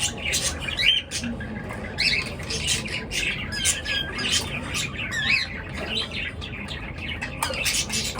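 A flock of caged pet birds chirping and squawking together, with short calls overlapping steadily.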